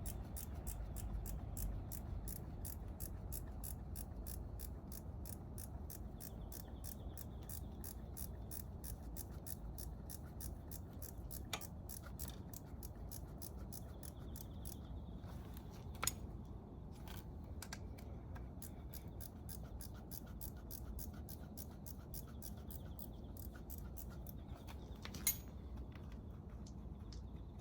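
Socket ratchet wrench clicking in an even run of about three or four clicks a second, with a few sharper knocks of tools or parts in between.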